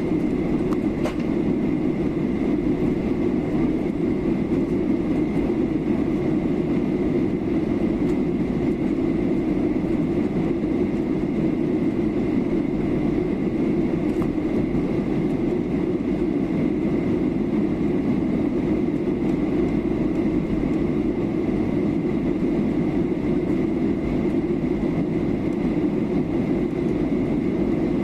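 Steady cabin drone of a Boeing 737-800 in descent: even engine and airflow noise, low and unchanging, with a faint steady high tone above it.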